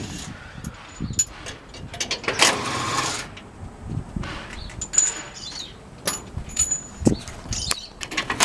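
Scattered metal clanks and knocks from tools at work on a pickup truck while its wheels are taken off, with a short burst of noise about two and a half seconds in.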